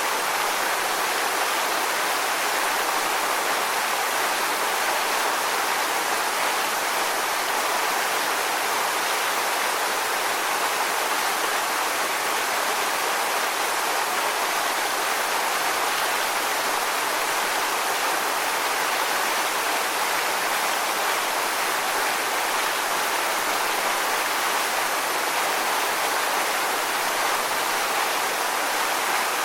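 Steady rushing water: an even, unbroken hiss with no swells or pauses.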